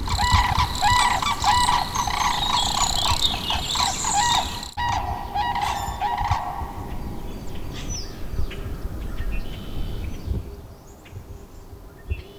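A flock of birds squawking and screeching all at once, dense and loud at first. After a cut about five seconds in, the calls go on more sparsely and thin out near the end.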